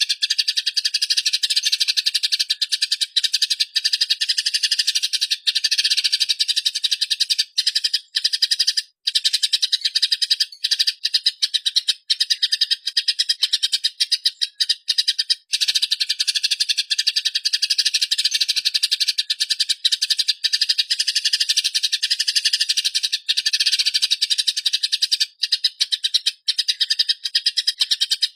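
Eurasian tree sparrows chattering in a fast, unbroken roll of high chirps, the agitated calling of sparrows squaring off. The chatter breaks off for an instant a few times.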